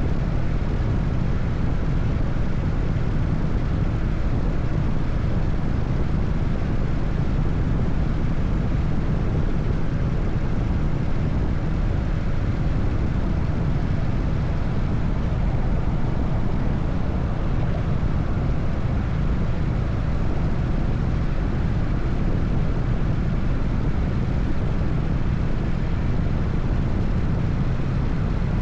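Harley-Davidson FXSTS Springer Softail's 1340 cc Evolution V-twin engine running steadily at highway cruising speed, with the engine's deep low note under an even rushing noise and no rises or falls in revs.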